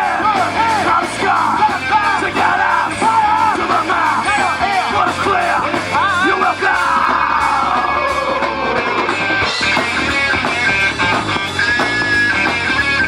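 Live rock band playing loud, with a wavering, bending lead line over the band for the first half. A long falling glide comes about halfway through, then a steadier guitar part.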